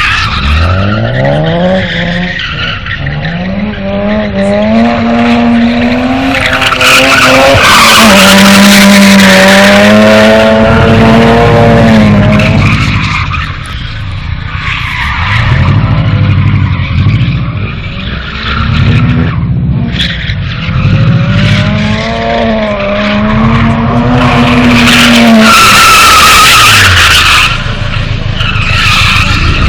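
A car engine revving hard, its pitch climbing and dropping over and over as the car is drifted, with tyres skidding and squealing, loudest about a quarter of the way in and again near the end.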